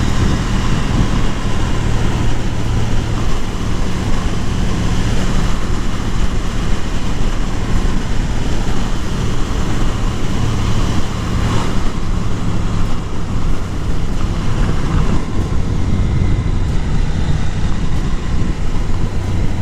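Ducati Scrambler's air-cooled L-twin engine running under way, with heavy wind rush over the microphone. The engine note rises and falls slightly through the bends.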